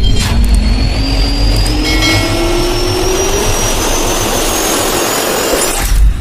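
Jet airliner engines running, with a whine that rises steadily in pitch over a low rumble.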